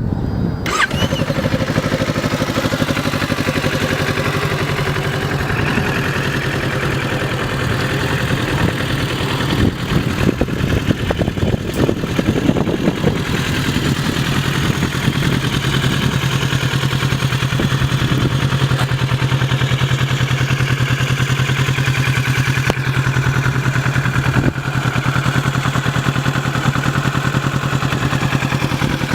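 2017 Kawasaki Ninja 650's parallel-twin engine starting, then idling steadily, with a few quick throttle revs about ten to thirteen seconds in.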